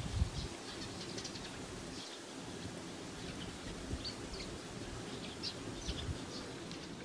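Small birds chirping outdoors: short, high calls scattered throughout over a faint steady hiss, with a brief low bump right at the start.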